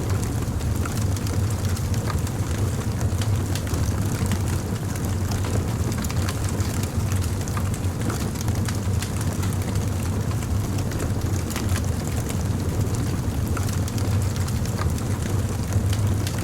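Wood fire crackling: many small sharp pops and snaps scattered over a steady low rumble.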